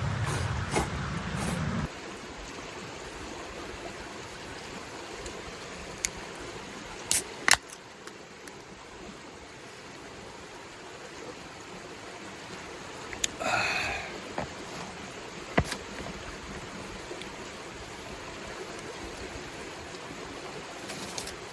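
Steady rain hiss. It is louder with a low rumble for the first two seconds, then drops abruptly to a quieter even hiss. A few sharp clicks sound through it, and there is a brief rattle about halfway through.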